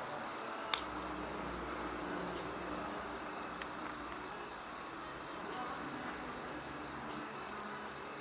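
Wood fire burning in a steel fire pit, crackling with a sharp pop a little under a second in and a fainter tick a few seconds later, over a steady chirring of crickets.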